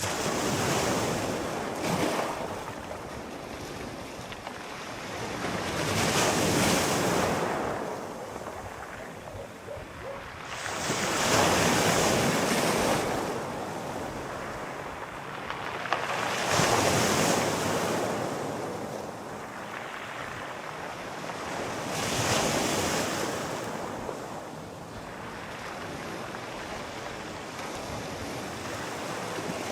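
Sea waves rolling in and washing, one surge about every five seconds.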